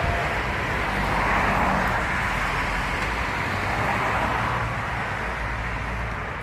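Road traffic noise: a vehicle going by, swelling a little over a second in and slowly fading.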